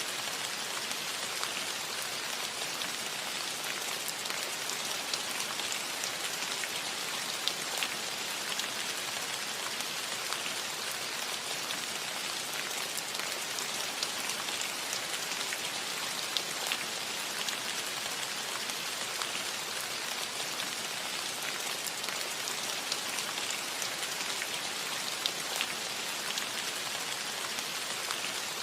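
Steady rain falling on a metal roof: an even hiss with many scattered sharper drop ticks.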